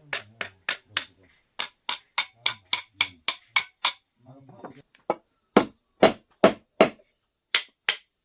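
Hand hammer striking in a steady run of quick blows, about three to four a second, then after a short pause four heavier blows and two lighter ones near the end, as the blacksmith works on a machete's handle.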